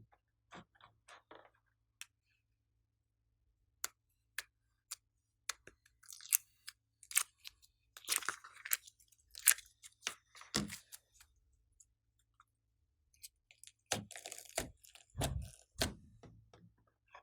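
Glossy slime being worked by hand, making sticky clicks and crackles: scattered at first, then in thicker runs with a few soft low squelches near the middle and again near the end.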